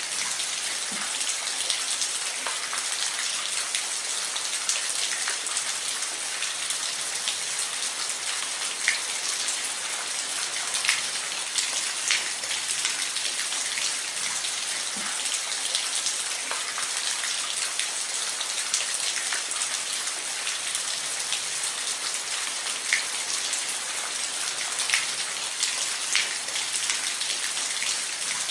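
Steady rain falling on a roof: an even hiss with scattered louder individual drop ticks.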